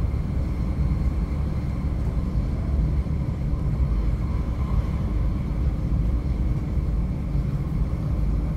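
Stockholm commuter train (pendeltåg) running at speed, heard from inside the carriage as a steady low rumble.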